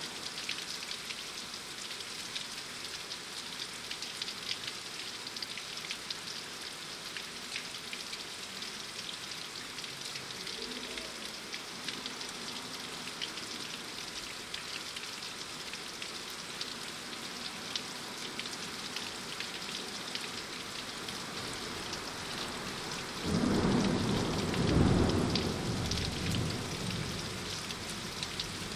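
Steady rain, an even hiss dotted with many small drop ticks. Near the end a loud roll of thunder rumbles for about four seconds and then fades.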